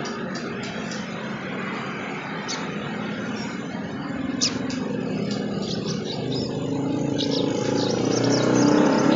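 A motor vehicle's engine running and growing steadily louder as it comes closer. Over it are short, high chirps from a sunbird.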